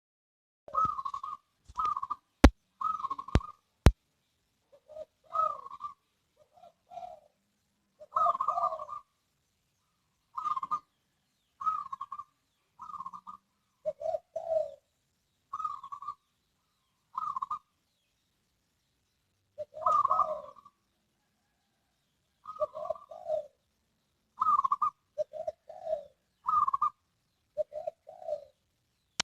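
Zebra dove (perkutut) cooing, a series of short rhythmic coo phrases repeated every second or two. There are three sharp clicks near the start.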